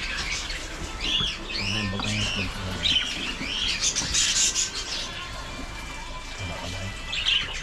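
Small caged parrots chirping and chattering: a stream of short, arching chirps, busiest through the middle and again near the end.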